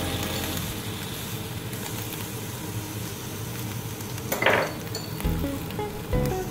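Spinach sizzling in a hot wok with a little water just added: a steady hiss, with one short louder burst of noise about four and a half seconds in.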